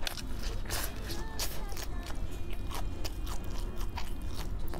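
Crispy fried chicken being bitten and chewed close to the microphone: an irregular series of sharp crunches of breaded crust.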